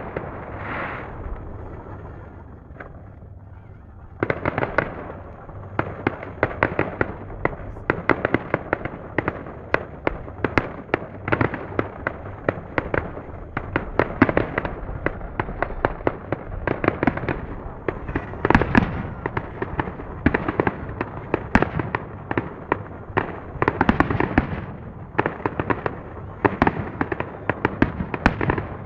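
Fireworks display: after a brief lull, a dense rapid run of bangs and crackles starts about four seconds in and keeps going.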